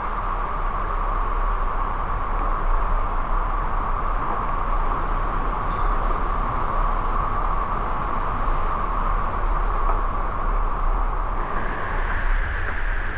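Waterfall rushing steadily: a loud, even rush of falling water that turns slightly brighter about eleven seconds in.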